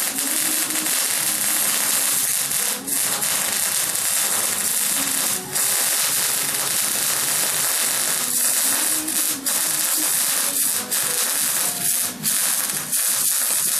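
Pulse jet engine running: a loud, harsh, rasping hiss that holds steady, drops out briefly a few times, and cuts off abruptly near the end.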